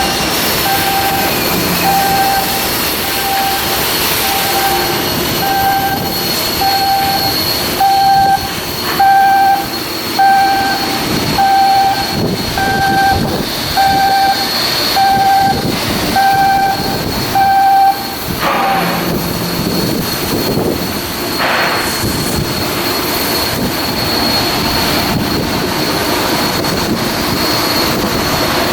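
Repeating electronic warning beep, about one every second and a quarter, over steady machinery noise; the beeping stops about two-thirds of the way through.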